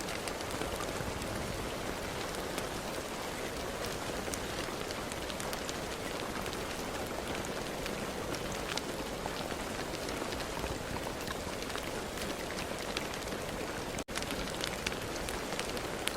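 Steady rain falling, with many separate drops ticking sharply on a surface over the even hiss of the downpour. The sound cuts out for an instant about 14 seconds in.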